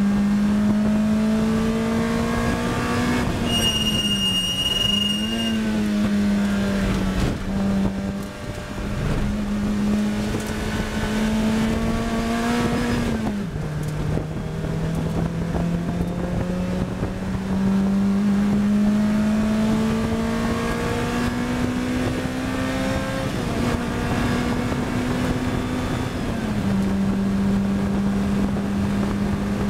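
Onboard sound of a Lotus Elise R's four-cylinder engine under hard track driving: the engine note climbs steadily and drops sharply at gear changes, about four times. A high steady whine sounds for about two seconds a few seconds in.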